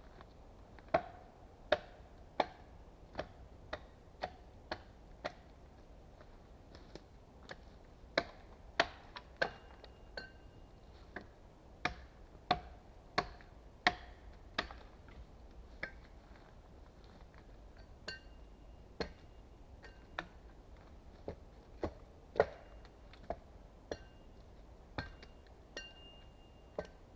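Small axe chopping at wood: a string of sharp knocks, irregular, about one or two a second, some followed by a brief ringing.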